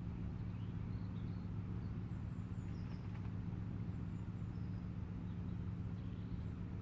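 Steady low hum of road vehicles idling, with small birds chirping in short high notes every second or so.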